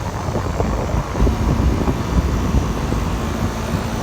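Old Goodman central air conditioner outdoor unit running, a steady mechanical rumble of its condenser fan and compressor.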